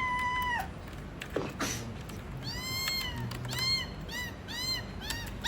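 Cat meowing repeatedly: a call trailing off at the start, a longer meow midway, then four short meows in quick succession.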